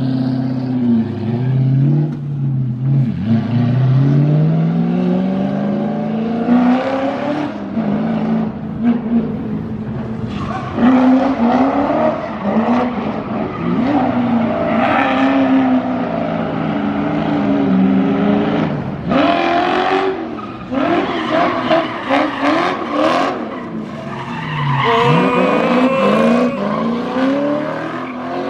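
Sports cars, Nissan GT-Rs among them, accelerating away one after another, their engines revving up and dropping back again and again as they shift and pass.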